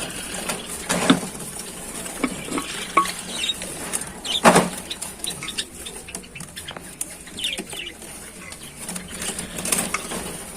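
Knocks and scrapes as a clay-pot nest is handled and opened. Caged birds chirp briefly throughout, and the loudest knock comes about four and a half seconds in.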